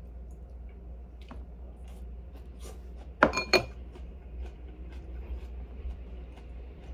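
Tableware clinking: two sharp clinks close together about three seconds in, with a brief bright ring, and a few faint small ticks around them.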